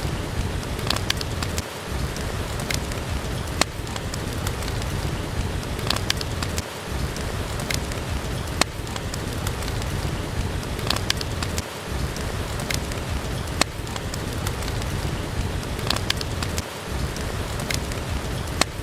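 Steady rain with sharp pops from a crackling wood fire scattered through it. The low rumble drops out briefly about every five seconds.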